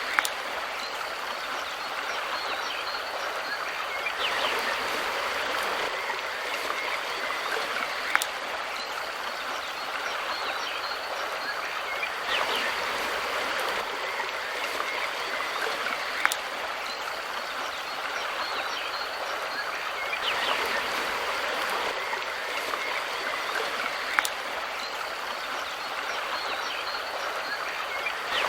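Steady rushing and burbling of a river stream, with a gentle swell and a short sharp click about every eight seconds.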